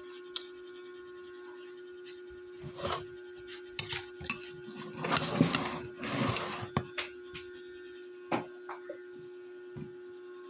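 Dishes and cutlery clinking and scraping at a meal, with a busier stretch of rattling and handling in the middle and a few single clinks around it. A steady low hum runs underneath.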